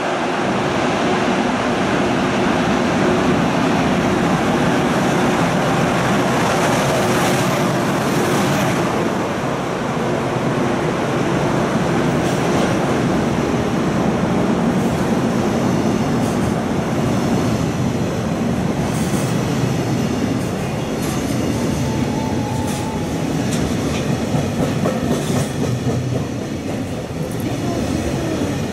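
EH500 electric locomotive and its long train of container wagons passing through a station at speed: a loud, continuous rumble of steel wheels on rail, with a steady hum in the first third and clickety-clack clicks of the wagon wheels over the rails in the second half.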